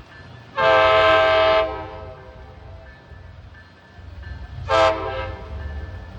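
MBTA commuter train's multi-chime air horn: one long blast of about a second, then a short blast about four seconds later. A low rumble from the train rises underneath from about four seconds in.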